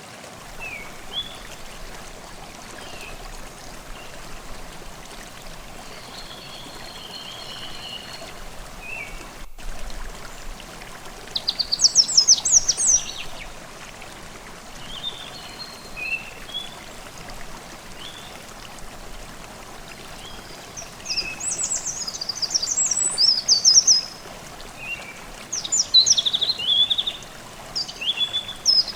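Forest stream babbling steadily under birdsong: scattered short calls early on, then fast trilled song phrases about twelve seconds in and again repeatedly in the last third.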